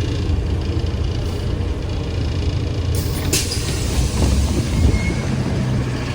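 Ride noise of a ZiU-682G-016.02 trolleybus: a steady low rumble, with a burst of hiss about three seconds in.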